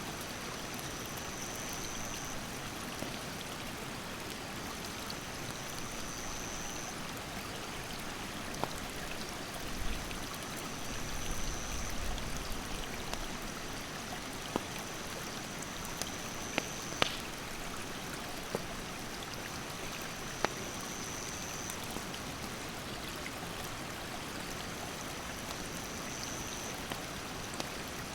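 Mountain stream rushing steadily, with campfire wood giving off scattered sharp crackles and pops. A high, thin insect call repeats about every four seconds.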